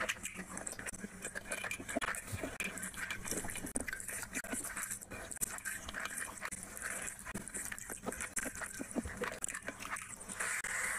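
Close, wet chewing and lip smacking of a mouthful of rice and curry eaten by hand, a quick irregular run of clicks and squelches, with fingers squishing rice on the plate between mouthfuls.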